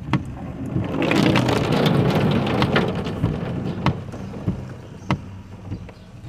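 Heavy rain falling on a car, with sharp drop hits on the body and a steady low engine idle underneath. The rain noise swells loud for a couple of seconds about a second in, then eases.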